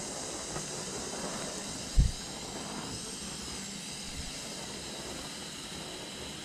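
Garden firework fountain burning with a steady spraying hiss that slowly fades. A single dull thump about two seconds in.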